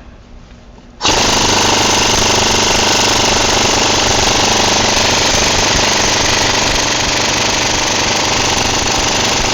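Impact wrench driving a chrome 12-point socket, hammering continuously on a tight bolt. It starts about a second in and runs without letting up. The bolt does not break loose.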